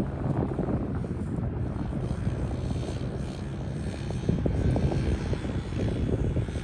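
Pit bike engine running at low revs, ridden slowly in first gear, with a steady drone and rumble.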